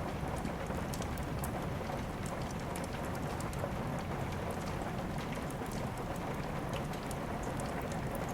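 Steady rain falling, an even wash of noise, with scattered small sharp crackles of a wood fire burning in a fireplace.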